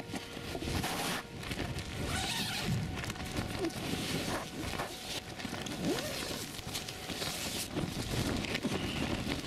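Strong gusting wind buffeting a backpacking tent, the nylon fabric flapping and rattling in irregular gusts.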